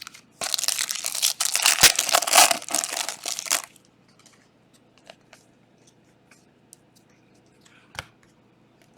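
A trading-card pack wrapper being torn open and crinkled for about three seconds, then a few faint, scattered clicks.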